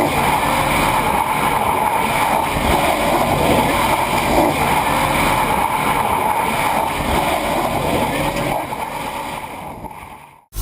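In-cabin driving noise of a 1995 BMW M3 race car converted to electric drive with twin Warp 11-inch electric motors: a steady rush of road and wind noise with no engine note, fading out near the end.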